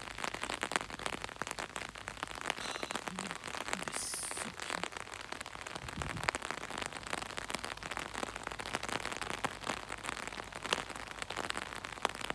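Steady rain falling, with drops striking an umbrella overhead in a dense, even ticking.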